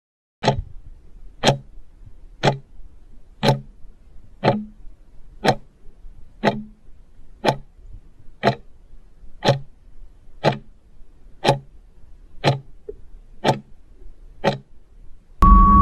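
Countdown-timer clock ticks, one sharp tick a second, marking the time left to answer a quiz question. Just before the end, a loud noisy sound with a steady tone cuts in.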